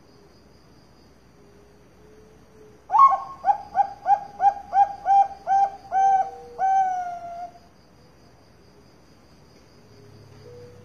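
Zebra dove (perkutut, Bangkok type) singing: a quick run of about nine short cooing notes, roughly three a second, ending in one longer falling coo.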